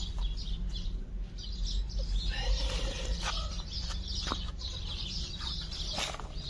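Birds calling: scattered short chirps and clucking calls, over a steady low rumble.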